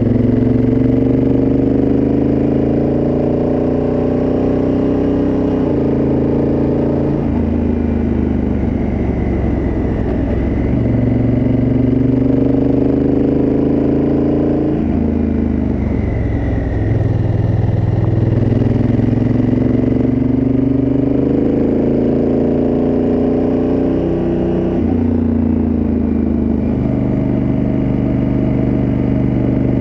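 Honda Africa Twin CRF1000L's parallel-twin engine through its original exhaust, heard on the move. The engine note climbs steadily under throttle and drops suddenly several times as the bike changes speed and gear.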